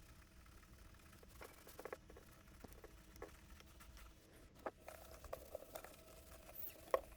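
Very quiet room with a few faint, scattered clicks and light taps, the sound of small hand-handling and cleaning, over a faint steady low hum.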